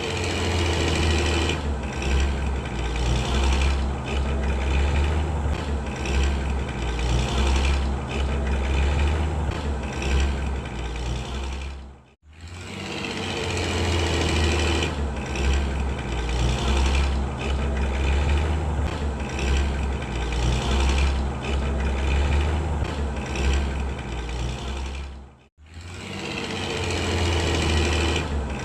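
Truck engine running steadily with a deep low rumble. It cuts out for a moment twice and starts again, like a looped sound clip.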